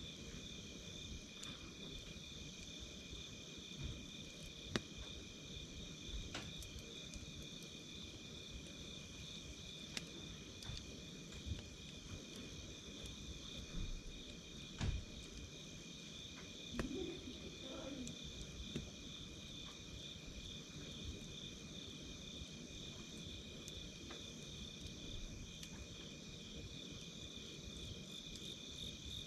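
Night insects trilling steadily on two high pitches, with scattered sharp crackles and pops from a wood campfire. A short wavering sound comes about 17 seconds in.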